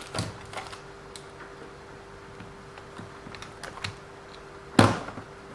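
Scattered light clicks and taps of small hand tools and plastic parts as a 1/14-scale RC car is taken apart, with one louder knock near the end.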